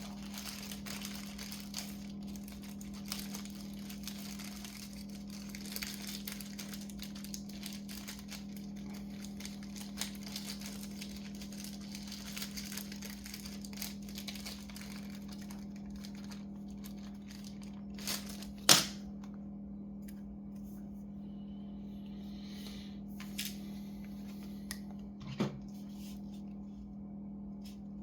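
Hands handling laptop parts and tools: light crinkling and tapping for the first half, then a sharp click about 19 seconds in and another about 25 seconds in, over a steady low hum.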